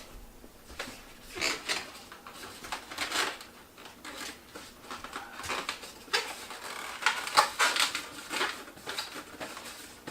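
Latex twisting balloons being handled and twisted, giving irregular rubbing bursts that come thickest a little past the middle.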